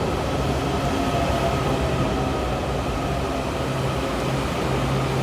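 Washington Metro subway train pulling up at a station, a steady rumble with a low motor hum and faint high whining tones.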